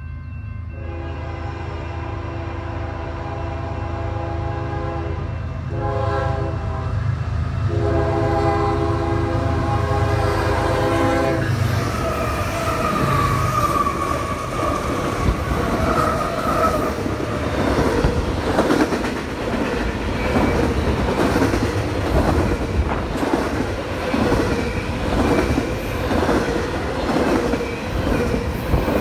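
A diesel freight locomotive's multi-chime horn sounds for about eleven seconds in long blasts broken once by a short one, over the low rumble of its engines. The train then runs close past: a brief high squeal, then the steady rhythmic clatter of double-stack container cars' wheels over the rail joints.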